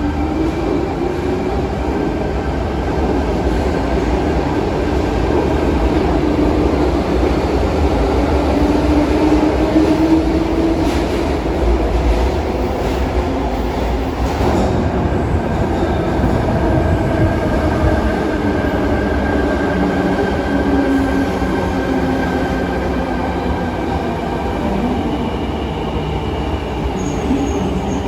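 Sydney Trains electric suburban train running on the underground T4 Eastern Suburbs line, with a continuous rumble and a motor whine that rises and then falls in pitch. Faint metallic wheel squeal is mixed in.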